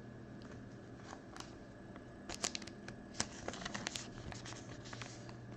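Trading cards being handled and slid against one another: a cluster of light clicks and scrapes in the middle, over a steady low hum.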